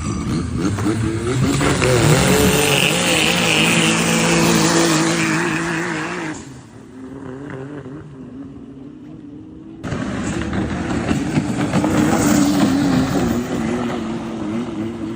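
Engine of a racing long-tail boat running loud at high revs, its pitch wavering. About six seconds in it falls away to a low level, and it comes back suddenly at full loudness near the ten-second mark.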